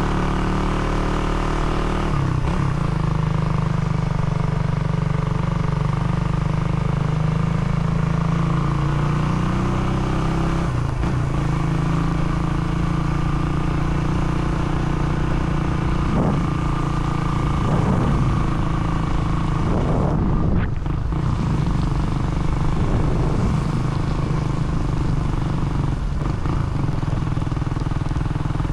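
Engine of a road vehicle running under way, its pitch shifting with speed and gear changes, with road and wind noise.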